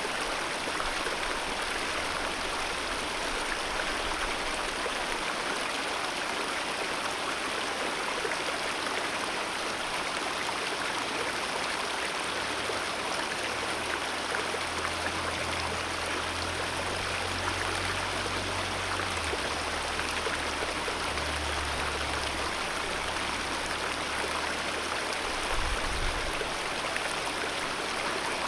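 Alpine mountain river rushing over rocks: a steady, continuous rush of flowing water, with a faint low rumble that comes and goes partway through.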